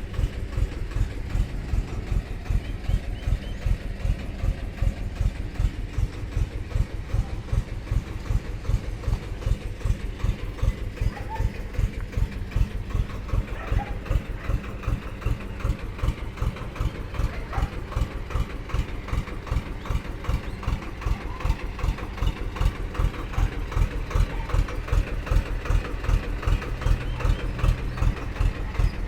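Second-hand mini tractor's diesel engine idling with an even, low chugging beat. It grows a little louder over the last several seconds.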